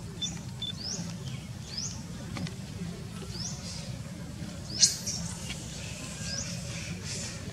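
Small birds chirping: short, high, rising chirps about once or twice a second, with one louder chirp about two-thirds of the way through, over a steady low outdoor rumble.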